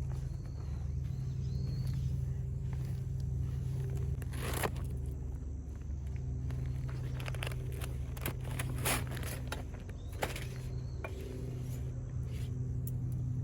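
Footsteps and scraping, handling sounds with scattered sharp clicks and knocks, the loudest about four and a half seconds in and again between seven and ten seconds in, over a steady low hum.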